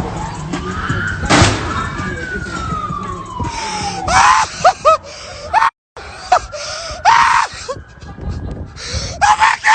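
A siren wails once, rising and then falling slowly, with a loud bang about a second and a half in. This is followed by short shouts or screams from people, some of them several seconds later.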